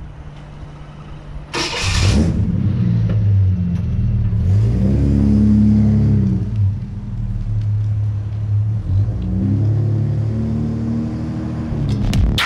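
A car engine starting about a second and a half in, then running and being revved twice, rising and falling in pitch each time.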